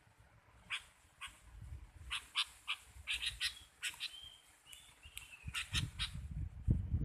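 Small songbirds calling: a run of sharp, quick chirps with a few short whistled notes between them. Low rustling or handling noise builds up near the end.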